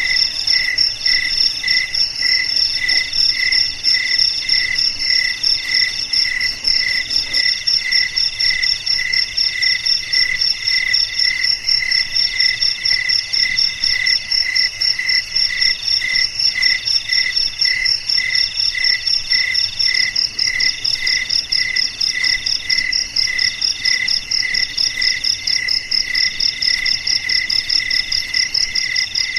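Several crickets chirping together in overlapping steady rhythms: a pulsed chirp repeating about three times a second, a higher, faster trill above it, and longer chirps about once a second.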